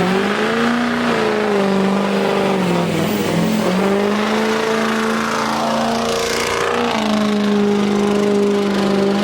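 A vehicle engine revved hard and held at high revs, its pitch dipping and climbing back a couple of times, with tyre noise underneath, as in a burnout on pavement wetted for it.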